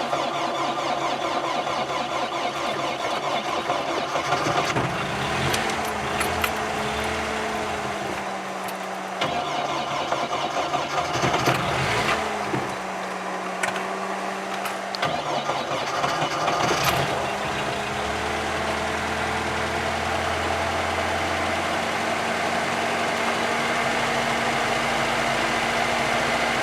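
VAZ-2105 (Lada) four-cylinder engine running just after a cold start, its note uneven and wavering for the first two-thirds, with a few sharp clicks, then settling into a steady idle.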